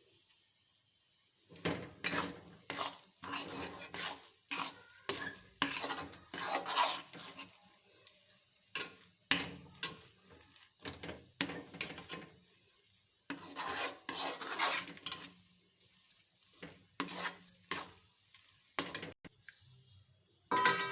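A spoon stirring and scraping food in a cooking pan, in quick irregular strokes that start about a second and a half in and pause briefly now and then.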